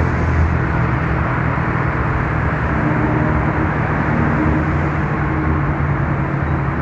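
Yamaha Mio Soul scooter's single-cylinder engine running steadily while under way, with steady road and wind noise.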